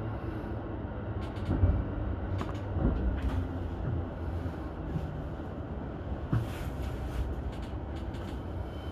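Keihin-Tohoku Line E233-series electric commuter train heard from the front of the train: a steady low rumble with several short knocks and clicks.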